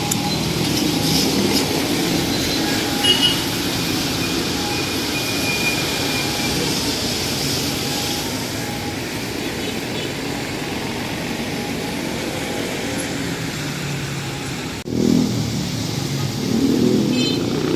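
Street traffic: motor vehicles running past in a steady rumble, with a sudden brief drop-out about fifteen seconds in.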